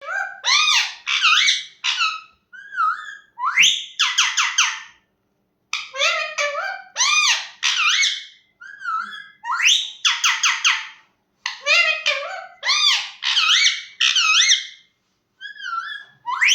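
Pet parrot calling and chattering: quick runs of shrill calls that sweep up and down in pitch, grouped in short phrases with brief pauses between.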